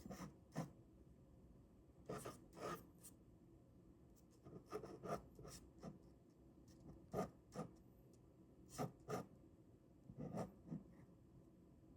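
Ballpoint pen drawing on paper: short scratchy strokes, a few at a time, with pauses of a second or two between the groups.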